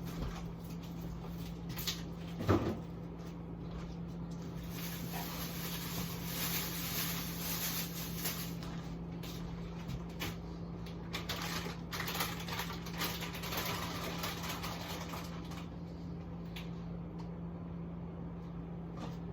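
Frozen food packages and containers being handled and moved around in a freezer: scattered knocks, clunks and rustles, the loudest knock about two and a half seconds in, over a steady low hum.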